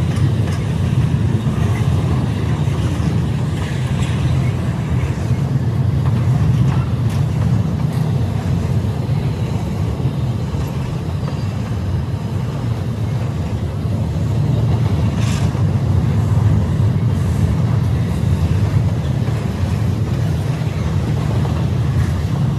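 Freight train of boxcars and container-loaded well cars rolling past on the track: a steady low rumble of wheels on rails, with a few faint clicks.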